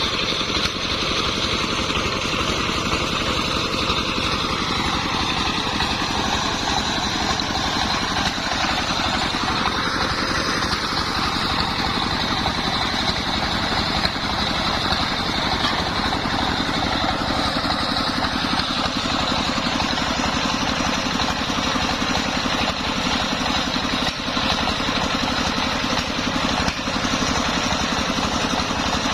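Engine-powered homemade circular sawmill running while sawing kenanga wood into boards, a continuous steady machine sound. Its tone slowly sinks over the first several seconds, lifts briefly around ten seconds in, then settles lower again.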